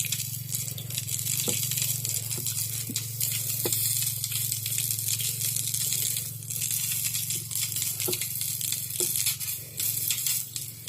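Mandazi dough deep-frying in hot cooking oil, a steady crackling sizzle, with a low hum underneath.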